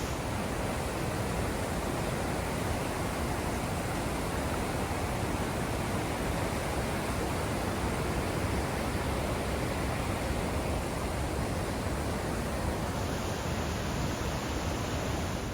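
Steady roar of a large waterfall, the falling water of Iguazu Falls making an even, dense rushing noise.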